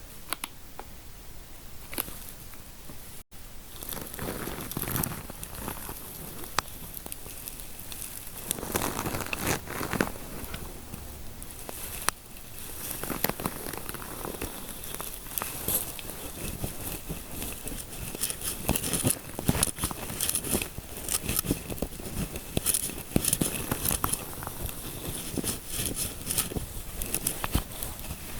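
Close-miked scratching and rubbing for a scalp-massage ASMR: an irregular crackling full of small sharp clicks. It drops out for an instant about three seconds in and grows busier from about eight seconds on.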